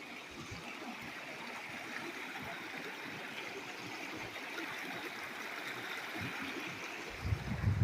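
River water flowing in a steady rush, with a few low thumps near the end.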